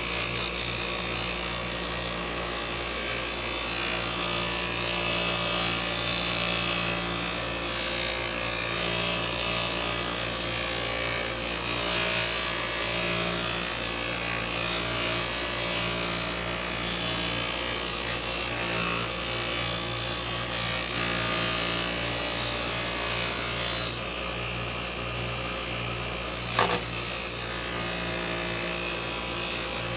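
Electric bench polishing wheel running steadily with a low motor hum, a cast silver piece held against the compound-loaded wheel with a steady rubbing, grinding noise. A single sharp knock comes near the end.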